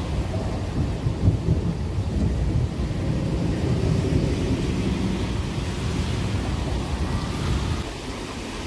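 Rolling thunder rumbling deep and unevenly, over rain hissing; the rumble fades out near the end.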